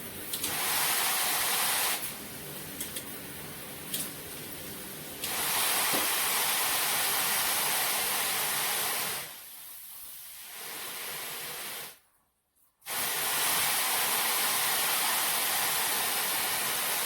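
Water spraying from a PWERAN handheld filtered shower head, a steady hiss that steps between louder and softer every few seconds as the spray modes change. About two-thirds through, the flow stops for under a second, then comes back strong.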